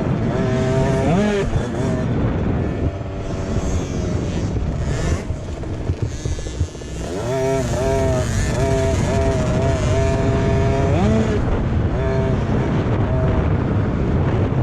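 Motocross dirt bike engines racing, revving hard with the pitch climbing and dropping at gear changes. The sound thins out about six seconds in, then comes back loud.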